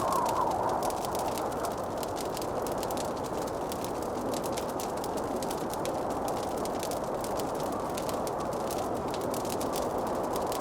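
Wood fire crackling in a fireplace: a constant scatter of small sharp pops and snaps over a steady soft rushing hiss.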